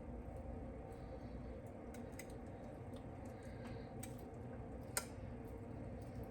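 Quiet kitchen room tone: a steady low hum with a few faint ticks, and one sharper click about five seconds in.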